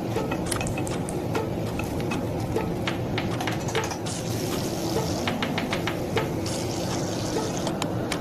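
Sliced onions frying in hot oil in a pan, with irregular crackles and spells of sizzling, while a spatula stirs and scrapes them.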